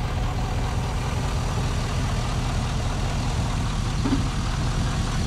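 Chevrolet SSR's 6.0-litre LS2 V8 idling steadily, heard over the open engine bay.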